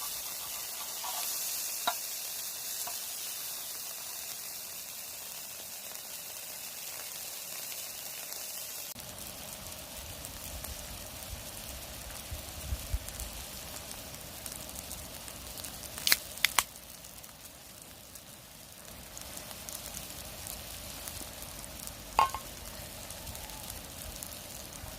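Beef sirloin sizzling on a hot griddle, a steady frying hiss. About nine seconds in the sound changes suddenly to a softer sizzle. Later come a few sharp clicks: three close together, then one more.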